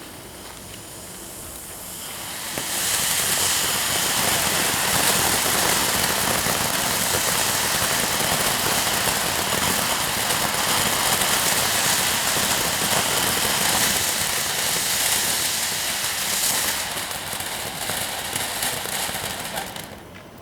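Several fountain fireworks burning together, spraying sparks with a loud, steady hiss. The hiss builds quickly about two seconds in, holds, then thins out and dies away just before the end.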